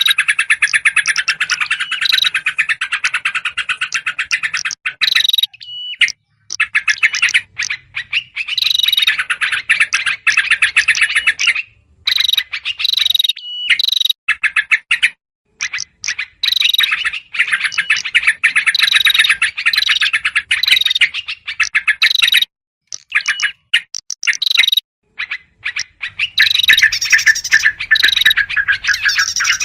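Bird-lure recording of agitated small songbirds, yellow-vented bulbul alarm chatter mixed with prinia calls: loud, rapid runs of sharp chattering notes in bouts a few seconds long, broken by short pauses.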